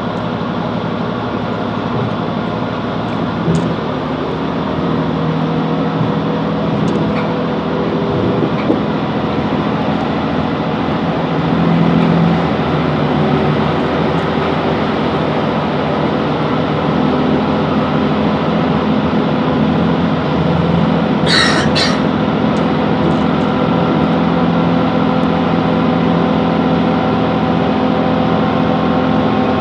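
Class 165 Networker Turbo diesel multiple unit running along the line: a steady diesel engine drone with several held tones under continuous wheel and rail noise. A brief high, sharp sound cuts in about two-thirds of the way through.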